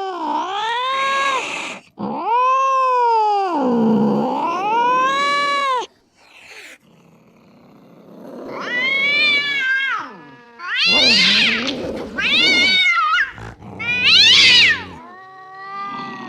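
Domestic cat yowling in long, wavering calls that rise and fall in pitch, one after another; after a brief lull about six seconds in, the calls come back higher and shorter.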